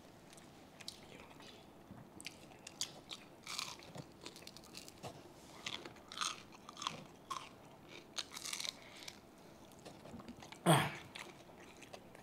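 Close-miked eating: chewing, lip smacks and crunching bites of crispy fried pork belly (lechon kawali) with its skin, as short scattered clicks and smacks. One louder, longer noise comes about ten and a half seconds in.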